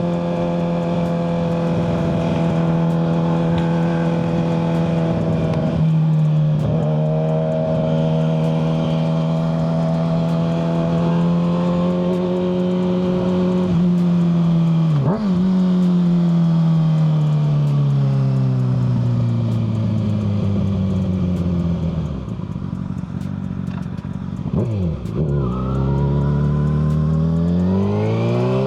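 Kawasaki ZX-6R 636 inline-four running through a Yoshimura exhaust, heard from the rider's seat. It holds a steady pitch while cruising, with two brief dips as gears change, then falls in pitch as the bike slows and rises again near the end as it accelerates.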